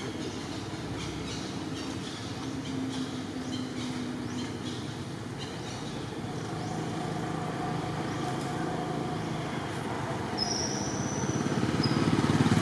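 Steady outdoor road noise, with a motor vehicle's engine getting louder near the end. A short high chirp sounds about ten seconds in.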